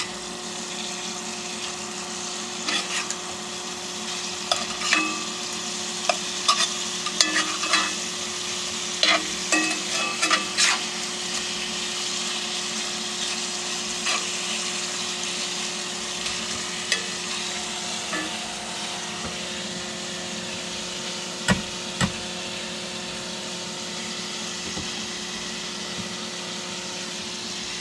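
Breakfast sausage sizzling in a cast iron skillet, a steady hiss. A run of clicks and taps against the pan comes from about 3 to 11 seconds in, and one sharp knock from about 21 seconds in. A steady low hum runs underneath.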